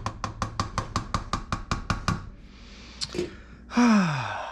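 A quick, evenly spaced run of about a dozen sharp clicks or knocks, about six a second, lasting two seconds. Near the end comes a short, louder sound that slides down in pitch.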